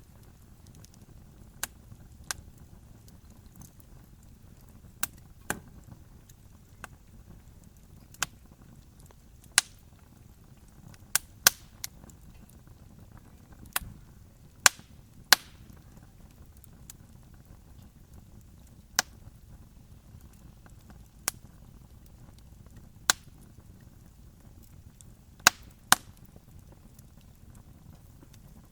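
Wood campfire crackling: sharp, irregular pops and snaps, a few of them loud, over a low steady rumble of the burning fire.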